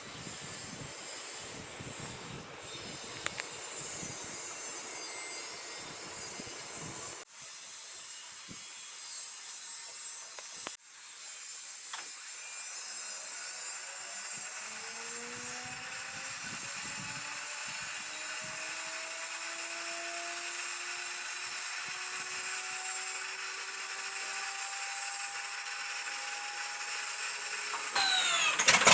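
Electric inertia starter of an An-2's ASh-62IR radial engine spinning up its flywheel: over a steady hiss, a whine rises slowly in pitch from about halfway through. A sudden loud burst with sharply rising tones comes near the end.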